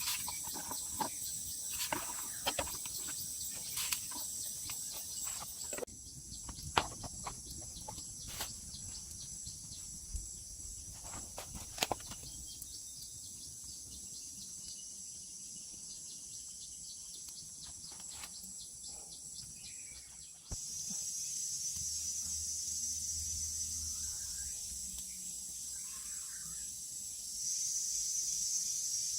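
Tropical forest insect chorus: crickets and cicadas keep up a steady, high-pitched chirring in several layers. Scattered small clicks and snaps come through in the first half. A louder, hissing chirr starts about two-thirds through and swells again near the end.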